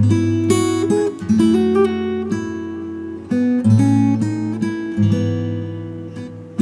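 Acoustic guitar playing slow, relaxing music: single notes and chords picked over sustained bass notes, each plucked note ringing and fading.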